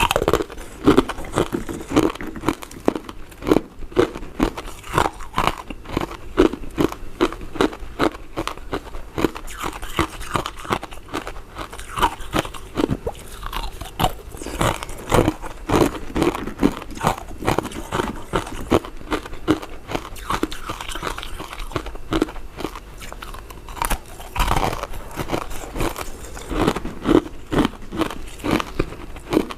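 Close-up chewing and biting of soft, chewy powder-coated mint sweets, in a steady rhythm of about one or two chews a second.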